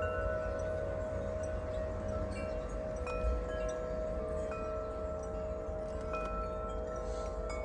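Wind chimes ringing in the wind, their metal tubes struck at irregular moments so that several long ringing tones overlap. A steady low rumble of wind on the microphone lies underneath.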